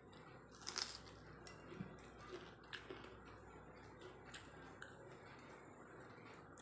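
Quiet eating sounds: a few light clicks and taps against a plate while rice and curry are eaten, the loudest about a second in.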